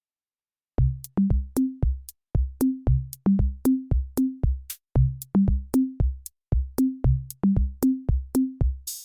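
Electronic drum-machine beat: kick and pitched tom hits with sharp clicks, about two to three a second, starting just under a second in.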